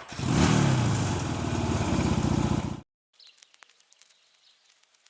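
Motorcycle engine running close by, its pitch rising briefly near the start, then stopping abruptly a little under three seconds in. Faint scattered clicks and quiet outdoor background follow.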